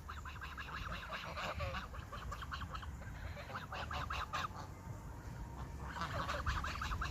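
Goose honking in rapid runs of short calls, with a lull of about a second past the middle before the honking starts again.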